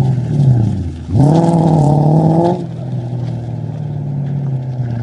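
Toyota Cresta GX71's straight-six exhaust through its muffler: the engine falls back from a rev, is blipped up sharply about a second in and held briefly, then drops to a steady idle about two and a half seconds in.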